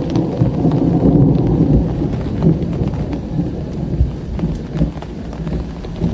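A long roll of thunder rumbles through heavy rain. The rumble is strongest in the first couple of seconds and slowly dies away, while raindrops patter sharply throughout.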